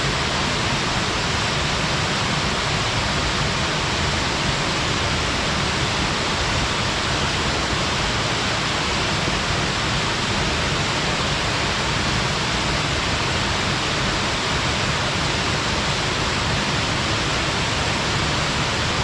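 Waterfall splashing down a rocky stream gorge: a steady, even rush of falling water.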